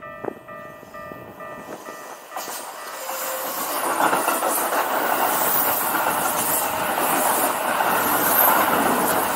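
Japanese level-crossing warning bell ringing in a steady repeating ding, drowned out about two seconds in by a Keikyu Type 1000 electric train passing close by, its wheels running loudly over the rail joints.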